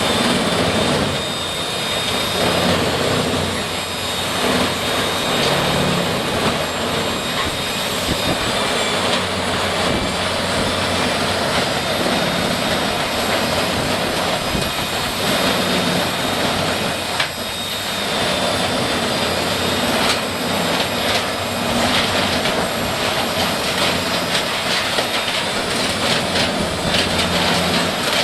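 Heavy machinery running steadily: a loud, dense mechanical noise with a thin high whine over it and scattered small knocks, dipping briefly about two-thirds of the way through.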